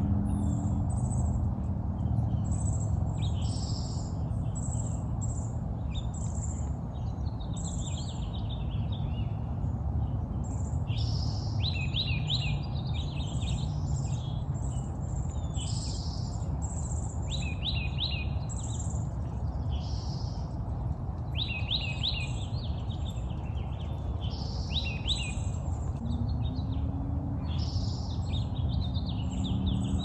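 Several songbirds chirping and singing, with short calls and quick trilled phrases coming every second or two, over a steady low rumble.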